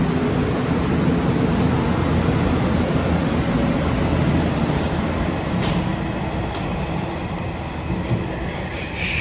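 Nishitetsu electric train pulling out of the station, its motors humming and wheels running on the rails. The noise eases off over the last few seconds, with several sharp clicks near the end.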